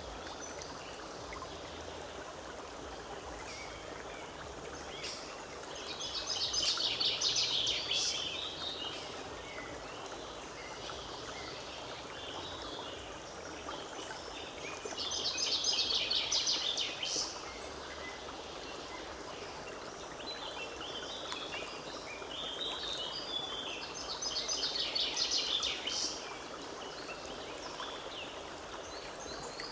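Forest stream running steadily, with a songbird singing three phrases of fast high notes, each about two seconds long and spaced some eight seconds apart.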